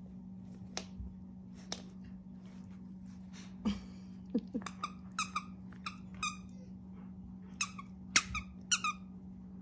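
Puppy chewing a squeaky dog toy, making a run of short, high squeaks, about a dozen in the second half, after a few faint clicks.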